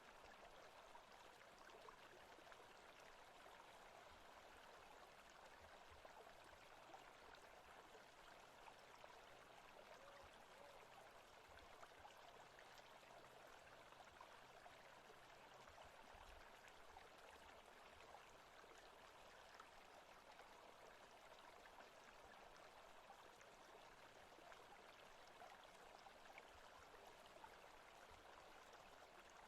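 Faint, steady ambient recording of running stream water, an even rushing without breaks.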